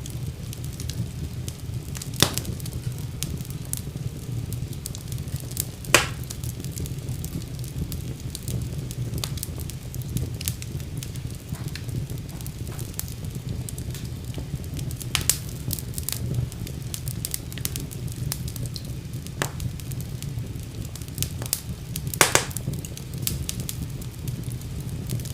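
Fire burning in a fireplace, crackling: a steady low rumble of flames with many small ticks and a few louder sharp pops scattered through.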